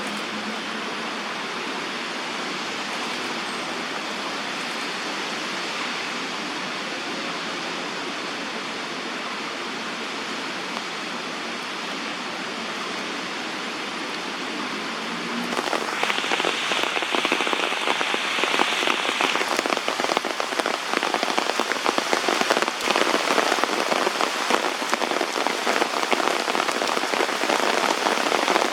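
Heavy rain falling: a steady hiss at first, then about halfway through it abruptly turns louder, with a dense patter of drops striking surfaces.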